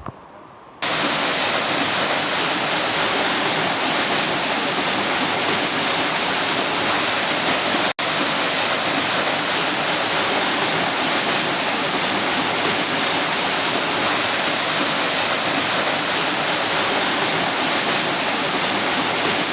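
Small waterfall with water rushing and splashing down in a steady, loud roar. It starts about a second in and cuts out for an instant about eight seconds in.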